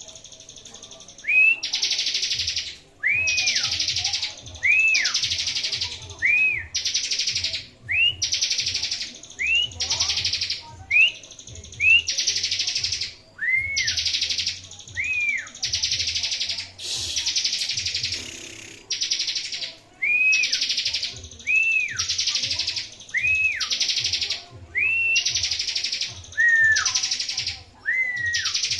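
Bar-winged prinia (ciblek) singing: a buzzy trill about a second long, repeated over and over with short gaps, each phrase set off by a clear whistled note that rises and falls.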